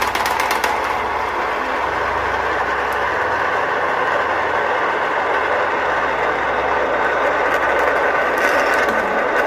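Many marbles rolling and clattering down a toy marble run, a continuous dense rattle that holds steady.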